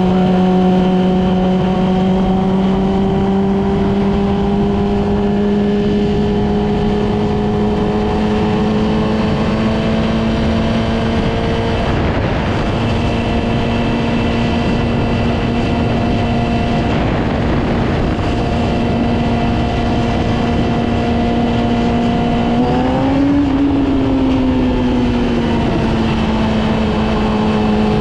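Yamaha R6 inline-four sport bike engine running at a steady cruise, its pitch creeping up slowly over the first half. A little past two-thirds through the revs rise sharply, then ease back down over a couple of seconds before settling again.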